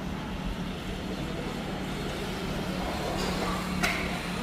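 Steady engine and road noise of a motor vehicle, with a low hum and a single sharp click near the end.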